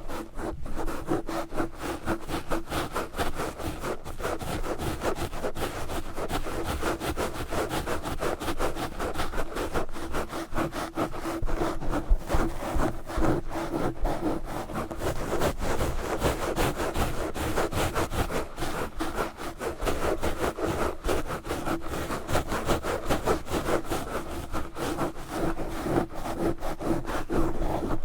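Fast, aggressive scratching of a microphone with knitted yarn gloves: a dense run of rapid, rough rubbing strokes that goes on without a break.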